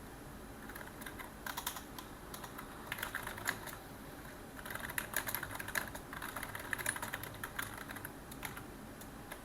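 Typing on a computer keyboard: runs of quick key clicks in short bursts, with brief pauses between them.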